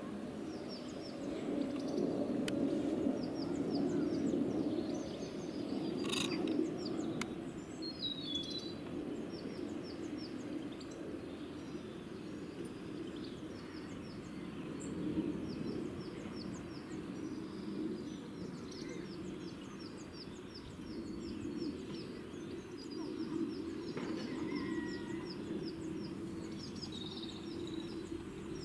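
Small birds chirping in long runs of quick, evenly repeated high notes over a steady low outdoor rumble, with a couple of faint clicks about six and seven seconds in.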